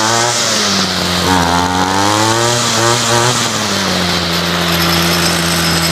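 Ryobi CS26 string trimmer's two-stroke engine running, revved up and down a few times in the first half, then held at a steady speed.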